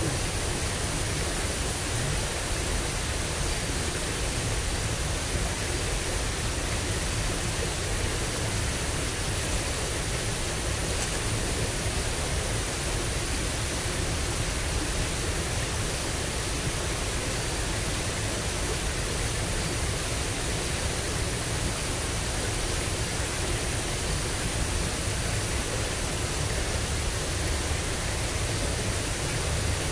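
Steady rushing of water flowing in a small drainage ditch swollen by recent rain, with a low rumble underneath and a faint steady high hiss.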